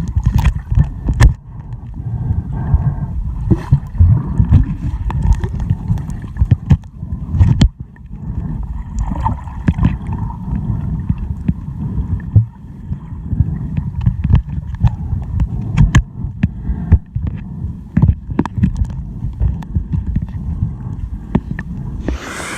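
Muffled underwater sound from a camera held below the surface while snorkelling: low churning of moving water with scattered clicks and knocks against the camera. Near the end the camera comes up out of the water and the open-air sound returns.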